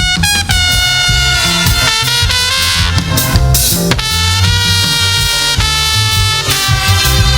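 Live band music: brass horns playing sustained phrases over bass and drums.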